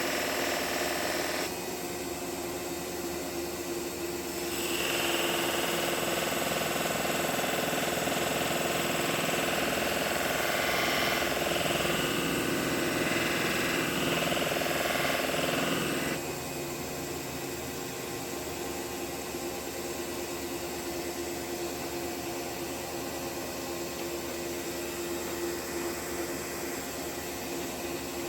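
Electric sharpening machine running with a steady hum. From about five seconds in to about sixteen seconds in a chisel is ground against it, a louder, higher grinding over the motor.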